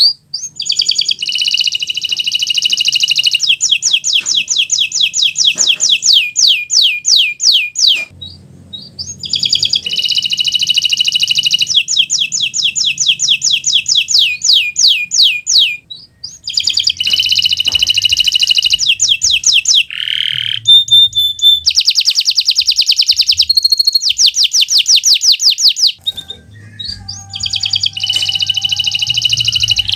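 Domestic canary singing energetically in long, fast rolling trills of rapidly repeated high notes, broken by a few brief pauses, with a short lower gliding note partway through.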